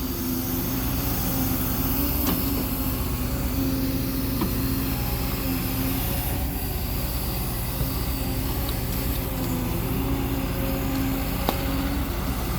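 Heavy equipment diesel engine running steadily at a constant speed.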